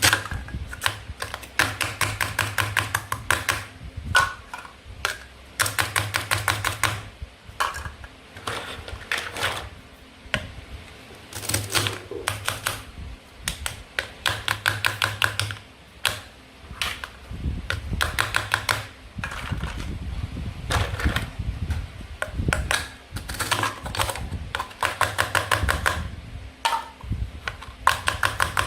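Toy fruit and vegetables being sliced apart at their hook-and-loop (velcro) joins, repeatedly. Each cut gives a run of rapid crackling clicks lasting a second or two, with brief pauses between cuts.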